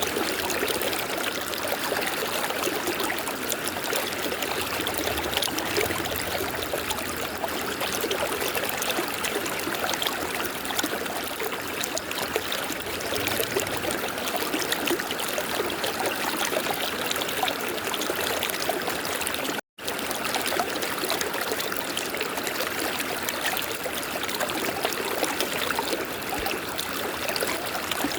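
River water flowing, a steady rushing and trickling, with a split-second dropout about twenty seconds in.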